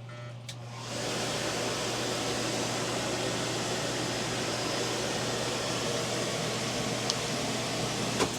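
Splendide stackable RV clothes dryer started with a click, its motor turning the drum on a newly fitted belt with a steady, even whoosh of the drum and blower. It runs smoothly with no rubbing or slipping, then stops with a click near the end.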